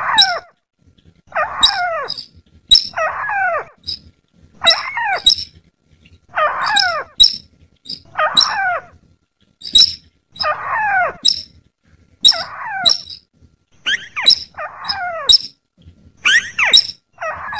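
Looped bird-trapping lure call, a combined sintar and trikusan sawah call. A sharp, high chip and a harsh, falling call repeat in turn about every second and a half.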